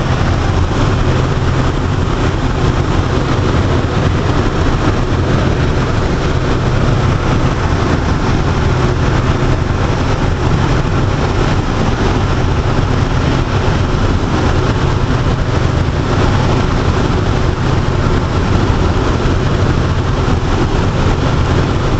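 Air Tractor aircraft's engine running steadily: a constant low drone at an even level.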